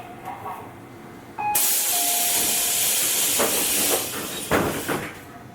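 Tobu 8000 series train's air system hissing loudly for about two and a half seconds, then a couple of thuds: the pneumatic doors closing before the train pulls out of the station.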